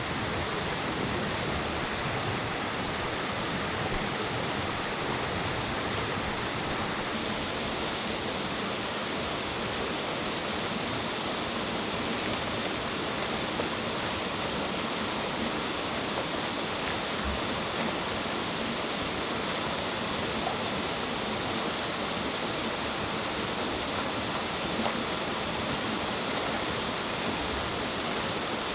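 Steady, even rush of flowing water, like a forest stream or small waterfall.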